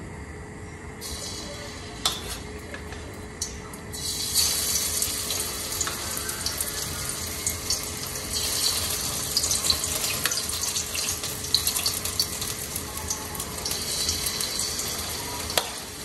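Flour-coated chicken pieces frying in hot oil in a wok: a steady sizzle starts faintly about a second in and grows much louder about four seconds in as more pieces go into the oil, with a few light clicks.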